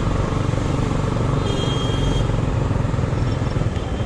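Suzuki Gixer SF motorcycle ridden at a steady pace in traffic: engine running evenly under road and wind noise.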